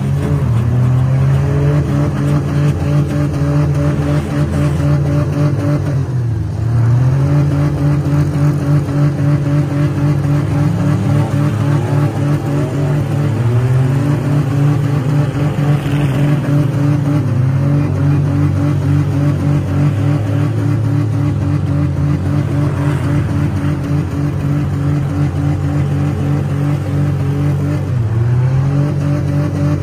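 Demolition derby cars' engines running hard and revving in the arena, the pitch climbing and falling again and again, with a sharp dip and recovery about six seconds in and again near the end.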